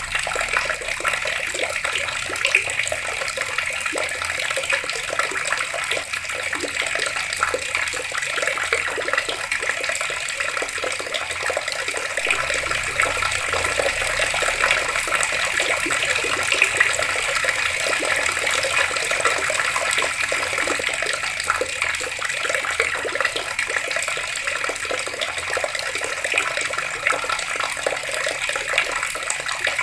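Water running from open taps and splashing steadily, a continuous hiss and patter of falling water.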